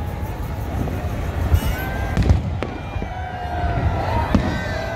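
Aerial fireworks bursting overhead: several sharp bangs a second or so apart, the loudest a little past two seconds in, over a low rumble and a crowd's voices.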